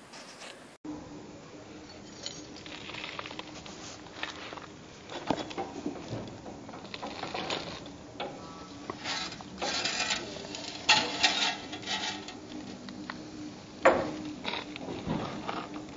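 Irregular scraping, clinking and tapping of hand tools on brick and mortar during bricklaying, with a few sharp knocks and a faint steady hum beneath.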